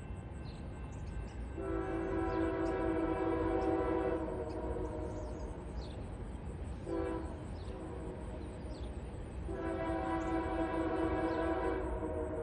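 A train's multi-note air horn sounds a long blast, a short one, then another long one, the pattern of the grade-crossing signal, over a steady low rumble from the train.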